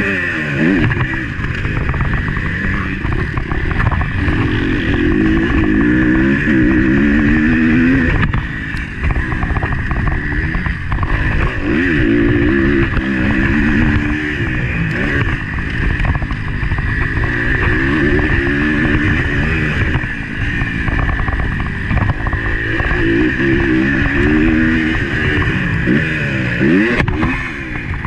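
Motocross bike engine heard on-board, revving hard and repeatedly climbing in pitch as it accelerates, dropping back between runs as the rider shifts or rolls off for turns and jumps.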